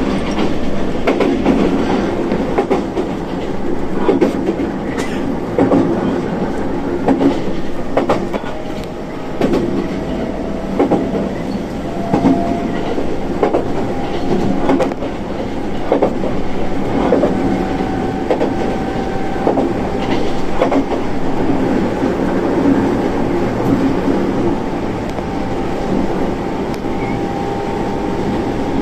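Electric commuter train running, heard from inside the car: wheels clack over the rail joints about once a second over a steady rumble, while a faint motor whine rises slowly in pitch.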